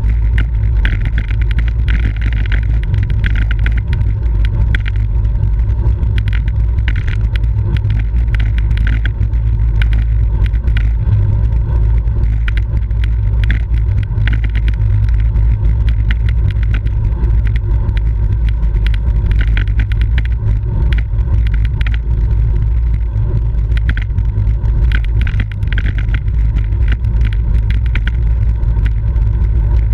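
Wind rushing over the microphone of a camera riding on a bicycle in a road race: a steady, loud low rumble with frequent crackles.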